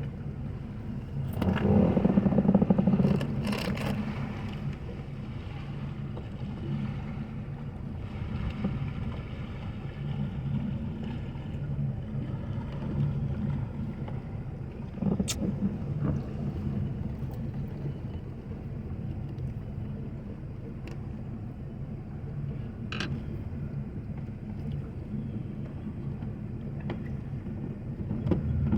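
An engine idling steadily with a low hum, which swells louder for a couple of seconds near the start. A few sharp knocks can be heard.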